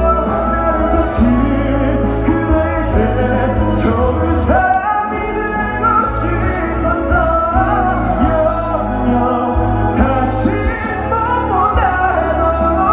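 Live pop ballad: a singer's voice gliding over instrumental accompaniment with a strong, steady bass.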